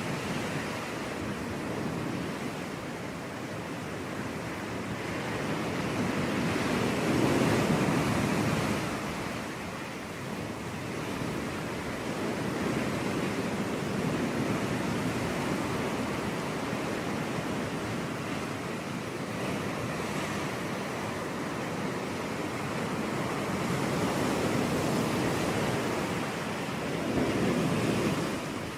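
Ocean waves breaking on a beach: a continuous surf wash that swells and eases every several seconds.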